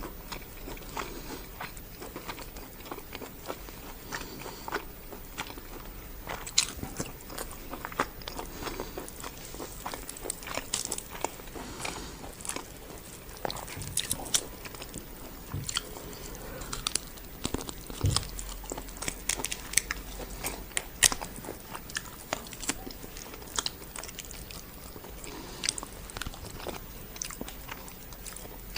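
A person chewing and biting food close to the microphone while eating karahi, with many irregular wet mouth clicks and smacks and a few louder bites.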